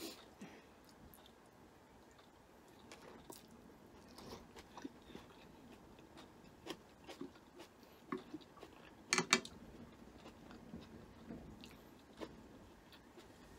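Faint chewing and mouth sounds of someone eating stir-fried egg noodles, with small clicks of chopsticks and one louder cluster of clicks about nine seconds in.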